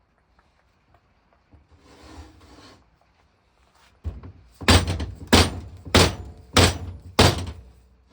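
Five heavy knocks in a steady rhythm, a little under two a second, starting about four and a half seconds in after a short clatter, as the old water pump of a 1921 Lister TM engine is struck while being worked apart.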